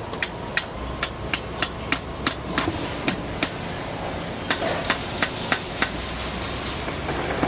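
Hammer blows in quick succession, about three a second: a run of about ten, a short pause, then about five more.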